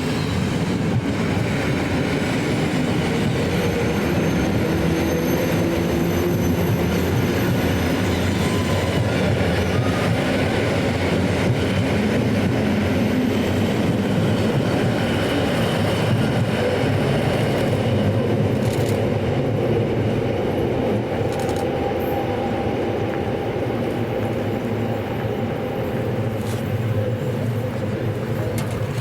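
Electric multiple-unit train running on the rails, a steady rumble of wheels and running gear with a faint high squeal in the first few seconds.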